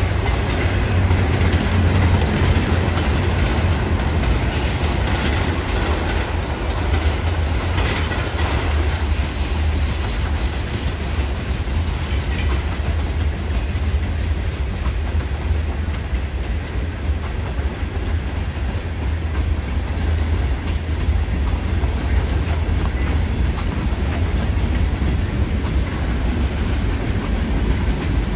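A freight train's cars rolling past, double-stack container cars, then tank cars, then covered hoppers, with a steady, continuous low rumble of wheels on rail.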